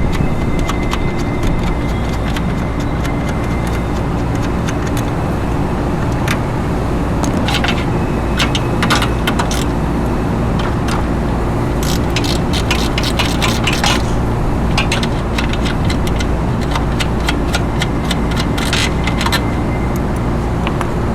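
Steady machinery drone, with three short runs of metallic clinking and ticking from hand tools on the exhaust fan's hardware: about a third of the way in, around the middle, and near the end.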